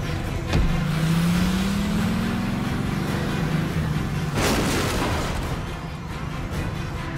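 A 1967 Chevrolet Impala's engine revving up, its pitch rising steadily over a couple of seconds, after a sharp knock just before. About four and a half seconds in comes a short rush of noise. Background music plays underneath.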